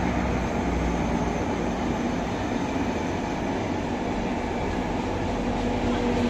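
Passenger coaches of a train rolling past as it pulls into the station: steady wheel-on-rail noise, with a faint hum that grows slightly stronger near the end.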